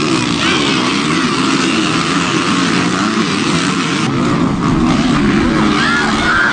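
Motocross dirt bike engines revving up and down, several engine notes overlapping, as the bikes race.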